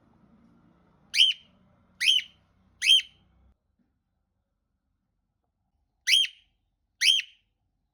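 Pet parrot giving five short, sharp whistled calls: three about a second apart, then after a pause two more.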